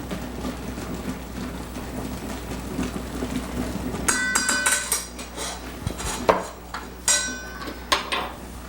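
Kitchen utensils and dishes clinking: two clusters of short ringing clinks and a single knock in the second half, over a steady low hum.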